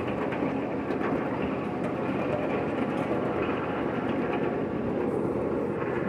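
Train running along its track, heard from aboard: a steady noise of wheels rolling on rail, with faint ticks.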